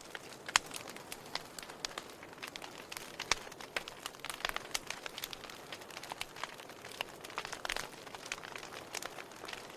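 Firewood burning, crackling: irregular sharp pops and snaps over a soft steady hiss, with one louder snap about half a second in.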